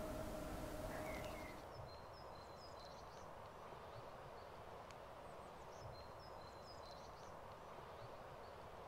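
Faint outdoor ambience with a few small birds giving short high chirps, in two little clusters about two seconds in and again around six seconds. A low steady hum of room tone cuts out within the first two seconds.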